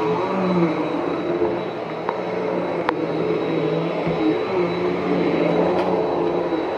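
Bissell PowerForce Helix upright vacuum cleaner running steadily, its motor giving a low hum with a thin high whine and a few sharp clicks along the way.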